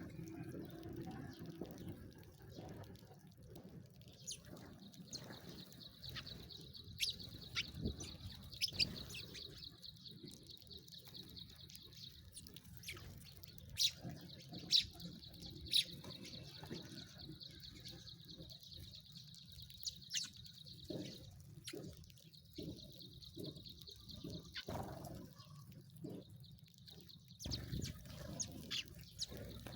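Sparrows chirping: short, sharp chirps scattered irregularly, over a steady high-pitched trilling that runs through most of the stretch.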